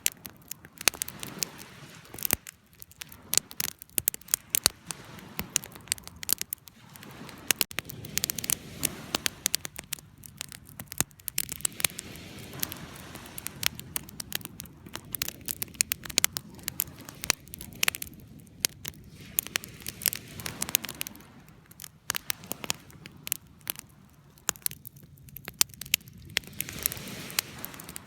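Wood fire crackling: irregular sharp pops and snaps, many a second, over a soft steady rush of burning.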